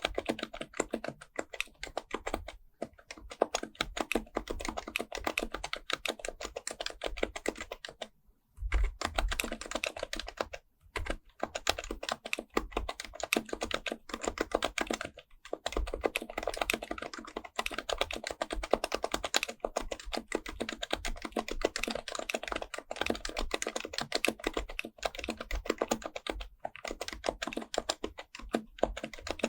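HHKB Professional Type-S keyboard with silenced Topre capacitive switches, typed on quickly and continuously: a dense stream of soft keystrokes, broken by a few short pauses, the longest about eight seconds in.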